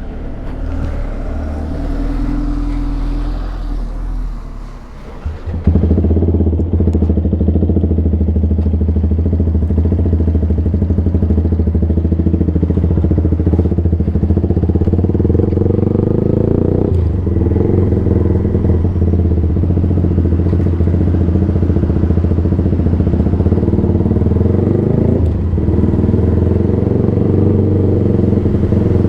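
Yamaha sport bike engine running through an unbaffled Black Widow exhaust can, loud. It is quieter and changing for the first five seconds or so, then suddenly gets louder and holds fairly steady revs, with brief dips in pitch about two thirds of the way in and again near the end.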